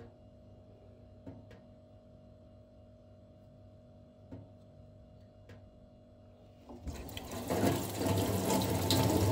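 A few faint clicks over a low steady hum, then about seven seconds in, water from a tap starts running and splashing loudly.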